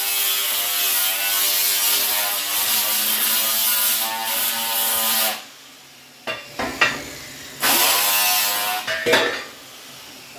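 Electric angle grinder running under load on steel, its pitch wavering as it bites, then switched off about five seconds in. A few metal clanks follow, a second short burst of grinding near the end, then another clank.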